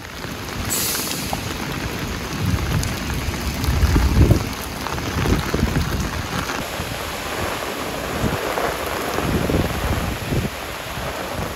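Torrential rain pouring onto pavement in a steady, loud hiss, with irregular low rumbles coming and going, the loudest about four seconds in.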